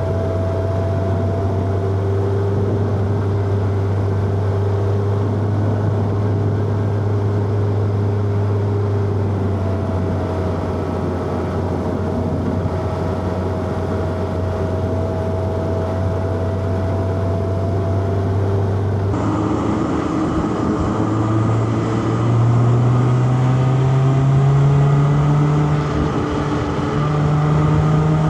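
Inline-four car engine running at a steady pitch, holding speed. About two-thirds of the way in the sound changes abruptly, and the engine's pitch then climbs in steps as the car accelerates.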